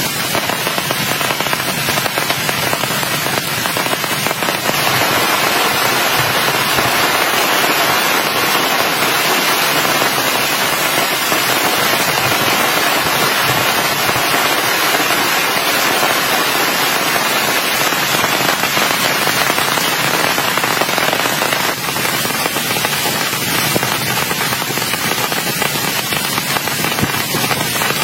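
Heavy rain falling, a dense hiss full of crackling drop impacts. It grows heavier about five seconds in and eases again a little after twenty seconds.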